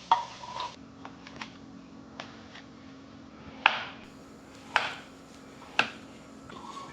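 A few sharp clicks and knocks, four of them louder, with lighter ticks between, over a faint steady hum.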